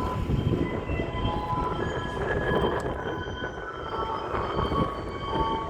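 Garbage truck running with a low engine rumble, while a tune of short notes at changing pitches plays over it, as from the truck's loudspeaker.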